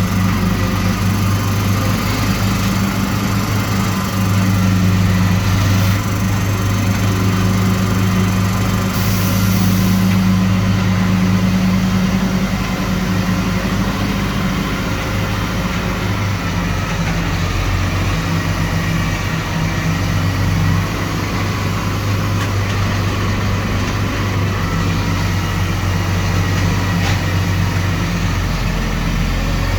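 Large farm machine's diesel engine running steadily at a constant low hum, easing slightly in level about twelve seconds in.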